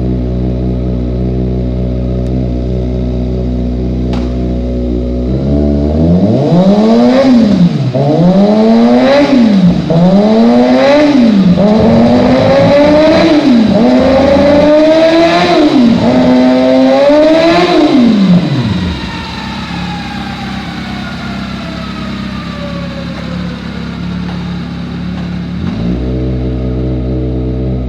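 2019 Kawasaki ZX-6R 636 inline-four engine idling steadily, then revved up and let back down about six times in a row, every two seconds or so. It then drops to a quieter run with a falling whine before settling back to idle near the end.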